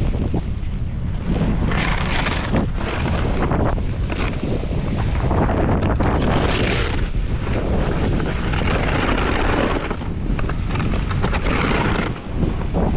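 Wind buffeting the microphone during a snowboard descent, a steady low rumble, with the hiss of the board sliding over snow swelling and fading every couple of seconds through the turns.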